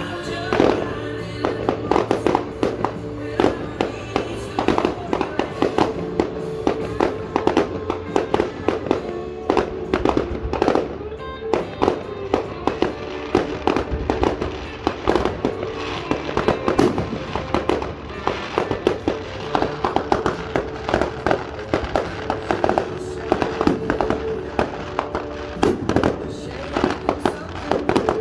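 Fireworks going off in quick, irregular succession, a dense run of bangs and crackles several a second, with music playing underneath.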